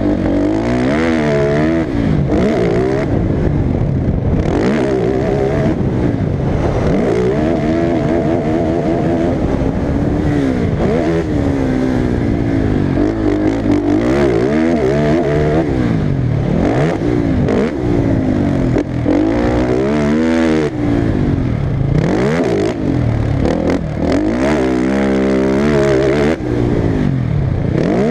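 Motocross bike engine running hard, its pitch repeatedly climbing and dropping back every few seconds as the throttle is opened and closed.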